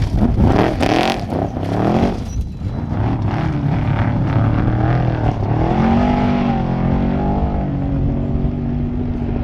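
Off-road race truck engine revving hard, its pitch rising and falling sharply in the first two seconds, then holding a steadier, wavering note.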